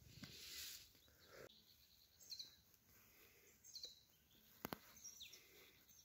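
Near silence, broken by a few faint, short, high bird chirps about two, four and five seconds in, with two faint clicks just before the last chirp.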